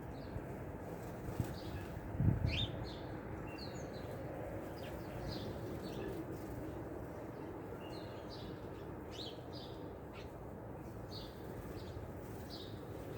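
Small songbirds giving short, high chip and chirp calls scattered throughout, over a steady low background hum. A low thump about two seconds in.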